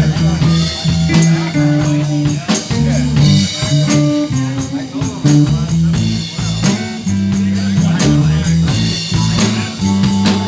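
Live blues band playing: a walking electric bass line, drum kit and electric guitar.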